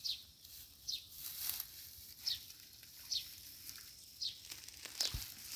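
A bird calling: a short, high note that slides downward, repeated six times about once a second.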